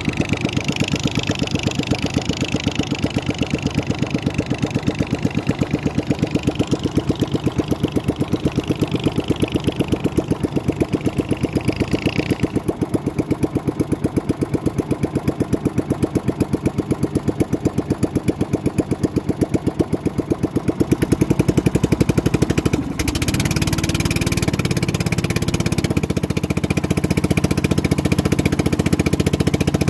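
An engine running steadily with a rapid, even firing beat. About 23 seconds in, its note changes and it gets a little louder.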